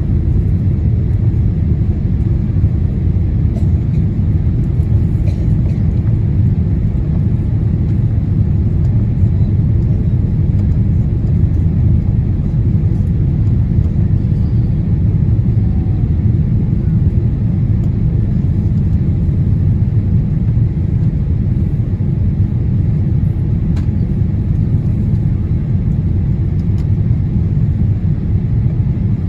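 Steady cabin rumble of a Boeing 787-8 Dreamliner climbing after takeoff: engine and airflow noise as a low, even drone that does not change.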